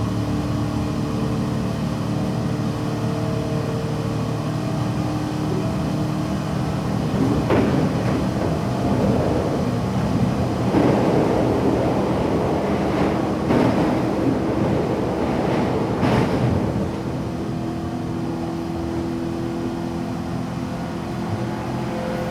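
Cabin running noise of a JR West 117 series electric train: a steady motor and gear hum over wheel-on-rail rumble. From about 7 to 17 seconds it grows louder and rougher, with several sharp clacks, before settling back to the steady hum.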